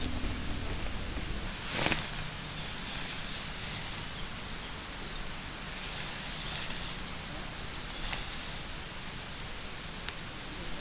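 Outdoor ambience: a steady hiss with small birds chirping high and briefly many times through it, and one brief louder rustle about two seconds in.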